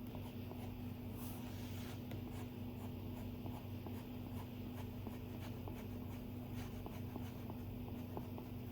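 Stylus tip tapping and stroking on an iPad's glass screen while drawing: a stream of small irregular ticks and light scratches over a steady low hum.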